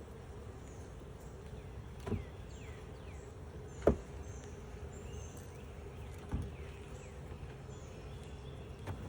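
Russian honey bee colony buzzing steadily from an open hive, with four short knocks, the loudest about four seconds in.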